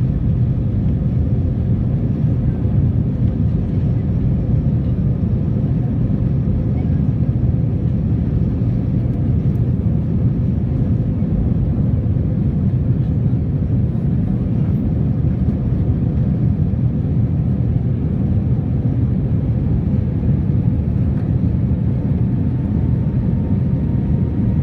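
Airbus A320 airliner's jet engines and airflow heard from the passenger cabin: a loud, steady low rumble at high power as the aircraft takes off and climbs. A faint thin whine rises slightly near the end.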